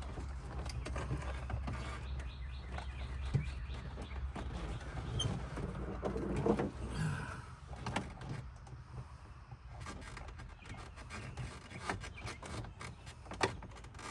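Plastic dashboard trim being pried and worked loose by hand: scattered clicks and creaks of panel clips, with louder handling about halfway through. A low hum stops about a third of the way in.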